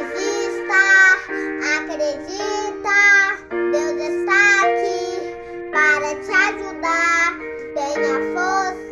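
A child singing a slow melody with long, wavering held notes over sustained keyboard chords.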